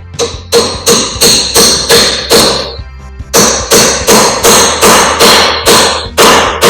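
Steel hammer blows on metal, about three a second, each with a metallic ring, in two runs split by a short pause about three seconds in. The work is on a rusted, very tight brake caliper carrier bolt.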